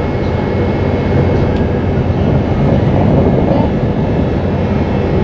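Steady low drone of a car ferry's engines and machinery heard on board, a continuous rumble with a faint hum.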